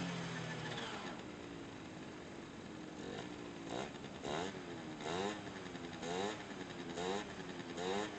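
Honda Gyro X (TA01) scooter's small four-stroke engine running after a start: a rev dies down to idle in the first second, then short throttle blips, about one a second, each rising and falling in pitch.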